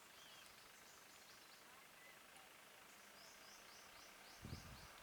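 Near silence: faint outdoor ambience with a quick run of high chirps, about five a second, in the second half, typical of a bird or insect. A brief low thump comes about four and a half seconds in.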